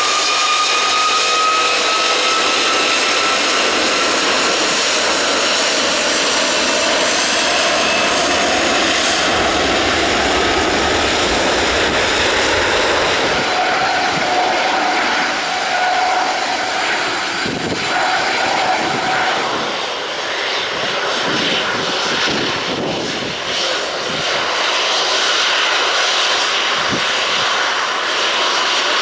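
Airbus A330-243 jet airliner's engines at take-off power: a loud, steady jet roar carrying a high whine that slowly rises in pitch over the first several seconds, the roar turning uneven later on.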